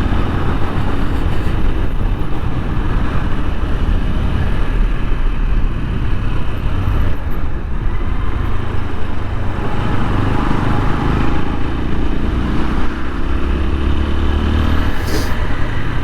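TVS Apache RTR 160 4V single-cylinder motorcycle engine running steadily while being ridden, with a tappet noise from the engine that the rider points out.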